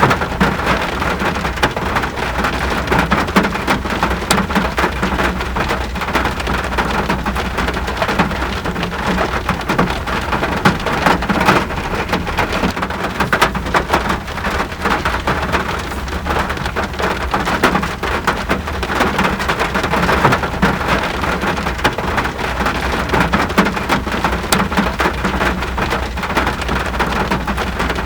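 Steady rain, with many individual drops ticking close by over an even hiss and a constant low rumble underneath.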